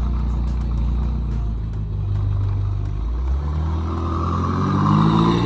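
BMW M5 F90's twin-turbo V8 running at a steady low note, then revving up about three seconds in, its pitch climbing toward the end.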